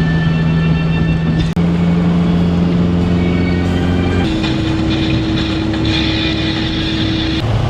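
Car engine droning at a steady cruising speed with road noise. The drone holds one pitch, then jumps to a new steady pitch twice, with a short dropout about a second and a half in.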